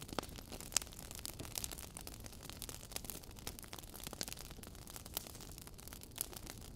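Log fire burning in a fireplace, crackling with irregular sharp pops and snaps over a low steady hiss; a louder snap comes about a second in.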